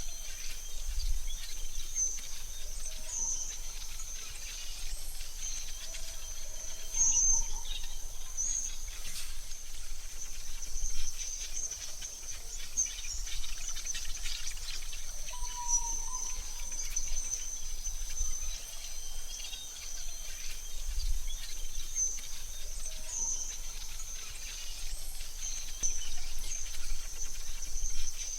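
Synthetic forest ambience: a steady high insect-like trill with scattered short bird chirps over a faint low rumble.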